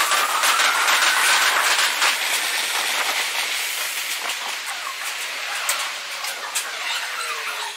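Red Meitetsu electric commuter trains running through station trackwork: a steady rail noise crossed by many sharp wheel clacks over joints and points. A squeal rises in pitch during the first two seconds.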